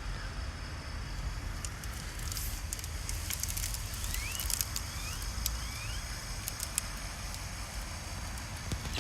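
Outdoor background noise: a steady low rumble with scattered crackling clicks, and four short rising chirps about four to five and a half seconds in.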